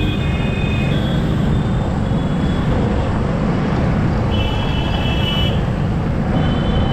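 Steady wind and road rush with motorcycle engine and surrounding traffic from a rider's camera, while vehicle horns honk briefly at the start, in the middle and again near the end.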